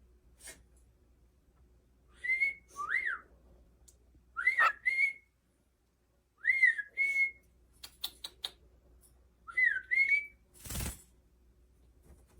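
Cockatiel whistling short two-part phrases, a swooping note then a brief held one, four times at intervals of about two seconds. A few light clicks and a short rustle come between the later phrases.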